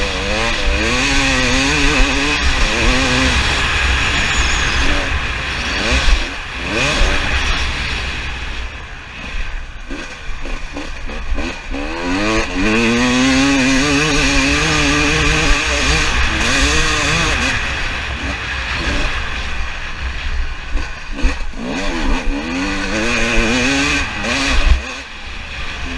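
Two-stroke 300 TPI dirt bike engine being ridden, revving up and falling back again and again with the throttle and gear changes. Wind rumbles on the microphone underneath.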